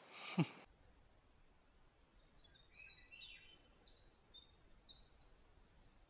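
Faint birdsong: a run of short, high chirps and twitters starting about two seconds in and lasting a few seconds, over quiet background hiss.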